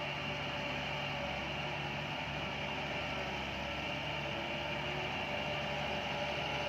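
Heavy diesel construction machinery running steadily, a constant drone with a faint steady whine over it.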